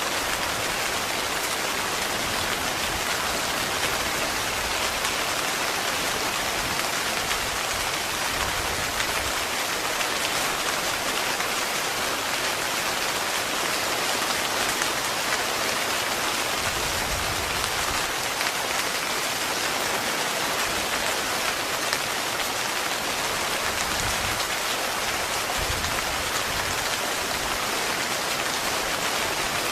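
Heavy rain falling steadily on a tent, a dense, even patter that holds constant throughout.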